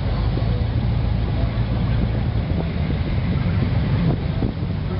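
A vehicle engine running steadily at low speed, a low even rumble, with some wind on the microphone.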